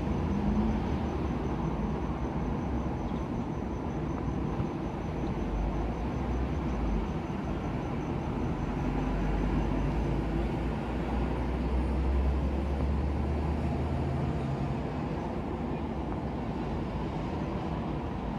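Steady low rumbling storm ambience, deepening in two long swells, about five seconds in and again about eleven seconds in, like distant thunder.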